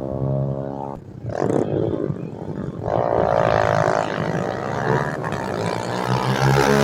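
Motorcycle engine running at a steady drone, breaking about a second in into rougher, louder engine noise that builds from about three seconds as the bike is revved hard.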